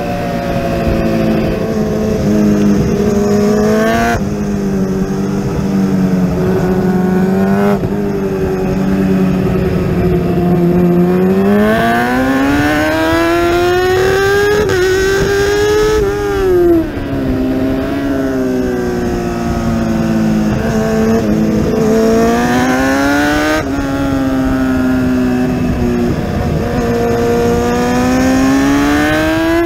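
Kawasaki ZX-10R inline-four race engine at full racing revs, heard from on board. Its pitch climbs through the gears and drops sharply at each upshift, about 4 and 8 seconds in, then falls and rises again as the bike brakes into corners and accelerates out.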